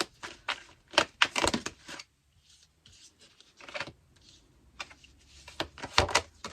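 Tarot cards being handled: an irregular run of sharp clicks and slaps as cards are shuffled and drawn, busiest in the first two seconds and again near the end, with quieter rustling between.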